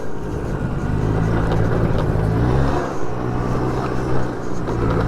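Small scooter engine running under way, its pitch climbing as it accelerates and dropping back about three seconds in, with wind rush.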